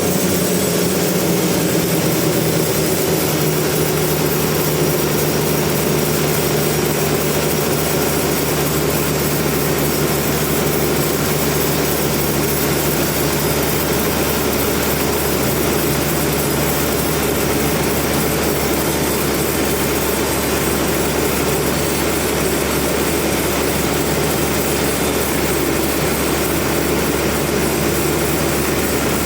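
Sawmill machinery running steadily, a loud continuous engine-like drone, its low hum dropping slightly in pitch about two seconds in.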